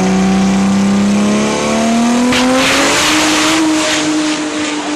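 Drag-race car engine at full throttle, its pitch slowly rising as it pulls down the strip. About two seconds in, a loud hissing burst with a fluttering edge cuts in for a second or so, and the engine then holds a steadier, higher note.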